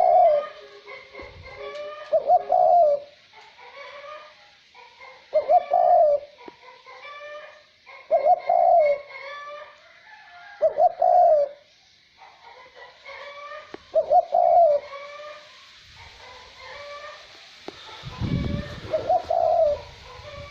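Male Cu Moi dove cooing: a short, pitched cooing phrase repeated about every three seconds, seven times, over light wind. A louder low rush of wind comes near the end.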